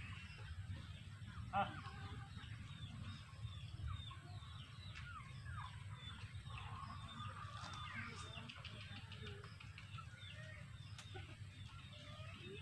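Birds chirping and calling, with many short quick chirps throughout and one louder call about a second and a half in, over a faint steady low rumble.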